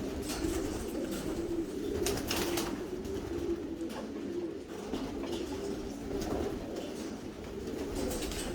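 Several homing pigeons cooing on and off, their low, wavering coos overlapping without a break. A few short scuffling sounds come about two seconds in.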